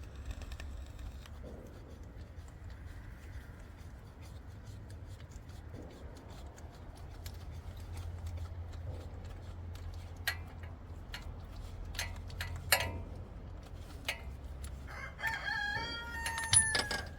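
Scattered clicks and taps of hand tools working on an engine's starter bolts, then a single drawn-out pitched squeal or call lasting just under two seconds that falls at its end, near the end.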